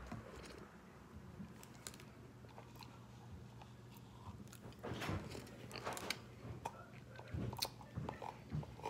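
Close chewing and mouth sounds of someone eating a pecan caramel sundae, with light clicks and scrapes of a plastic spoon in the plastic cup. The sounds are faint at first and louder and more frequent in the second half.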